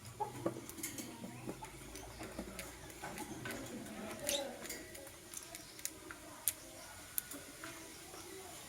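Lovebirds giving scattered short chirps and clicks, fairly faint, the loudest a little past the middle.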